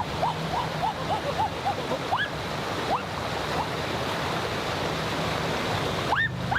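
Steady rushing water with a bird's short rising chirps repeated about three to four times a second, thinning out after the first second or two and coming back louder and higher near the end.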